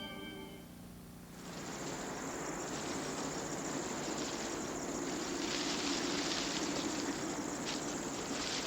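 Organ-like theme music fades out in the first second, then a steady, even hiss of background ambience sets in.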